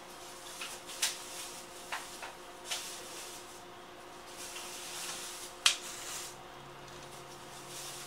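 E231-series electric commuter train standing at the platform: a steady faint hum with a few sharp clicks and knocks, the loudest about two-thirds of the way in, and a lower hum joining near the end.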